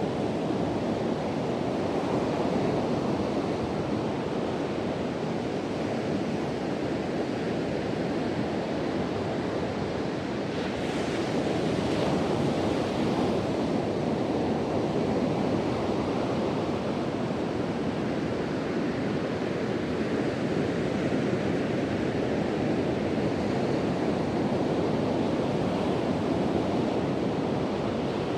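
Ocean surf breaking and washing on a beach, a steady rushing wash with wind blowing across the microphone. A wave breaks a little louder and hissier a bit before the middle.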